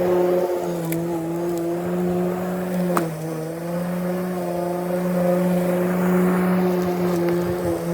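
Lawn mower running steadily, a constant pitched drone, with one sharp click about three seconds in.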